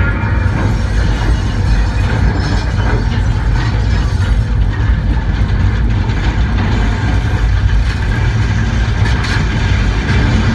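Continuous loud low rumble with a rushing noise over it: the roar of tornado-force storm winds.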